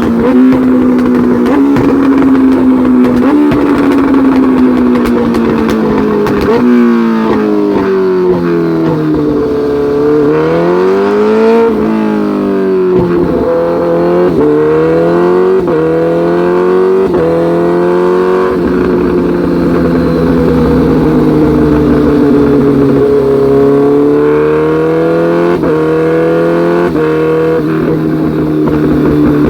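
Sport motorcycle engine run hard on a dyno. The revs climb in repeated rising sweeps with sharp drops between them, then hold steady and loud for the last ten seconds or so.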